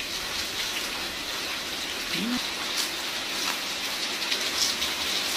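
Steady hiss of rain falling, with a few faint crisp ticks of a fried pandan leaf chip being chewed and a short hum from the eater about two seconds in.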